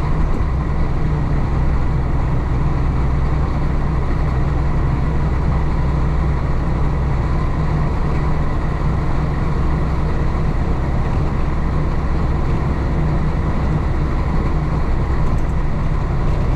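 1966 Isuzu BXD30 bonnet bus's DA640 diesel engine running steadily as the bus drives along, with road noise.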